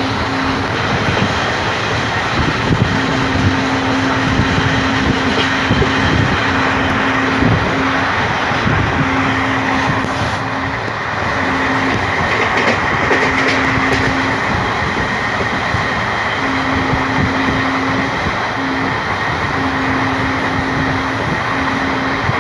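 Passenger train running along the track: a loud, steady rumble and rush of wheels on rails, with a low hum that cuts in and out every second or two.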